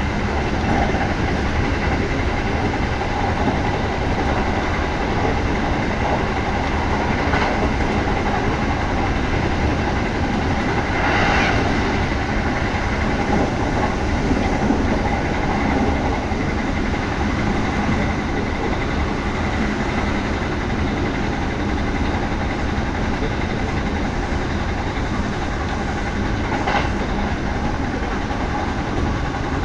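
Kintetsu 1200 series electric train running at speed, heard from inside the carriage: a steady rumble of wheels on rail with a few brief sharper sounds along the way.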